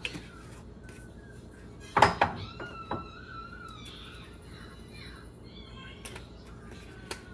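A few sharp knocks and clinks of kitchenware being handled, the loudest about two seconds in. A brief, faint wavering high tone follows that knock.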